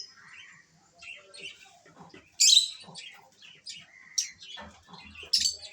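Lovebirds chirping in short, sharp, high calls, with a loud shrill burst about two and a half seconds in and more sharp calls near the end.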